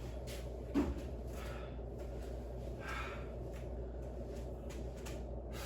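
A person breathing out sharply twice, about three seconds in and near the end, with a single dull thud about a second in, over a steady low hum.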